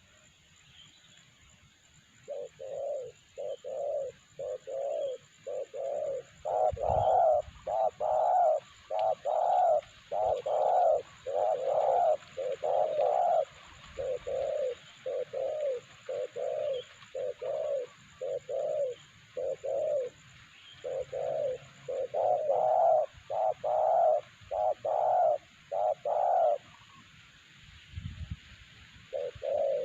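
Spotted dove (terkukur) cooing over and over in a long run of short, deep coos, about two a second, stopping about 26 seconds in and giving one more coo near the end.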